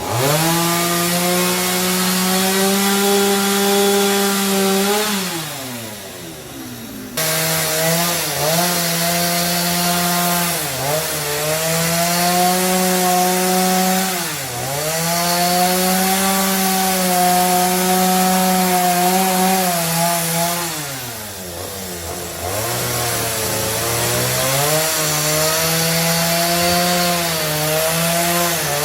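Chainsaw cutting timber for fan rafters, running at high speed with its pitch sagging several times as it bites into the wood and picking back up between cuts. About seven seconds in the sound cuts in abruptly at full speed.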